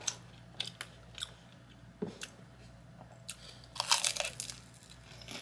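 Close-miked chewing of crunchy food, with irregular sharp crunches and a louder burst of crunching about four seconds in.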